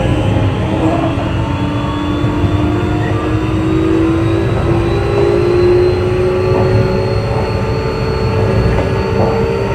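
Keio 8000 series electric train running: several traction-motor tones climb slowly in pitch as the train gathers speed, over a steady rumble of wheels on the rails.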